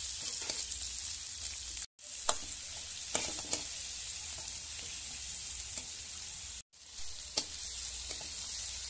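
Chopped onions and coriander sizzling in hot oil in a wide metal pan, with a metal spatula clinking and scraping against the pan now and then as they are stirred. The sizzle drops out for a moment twice.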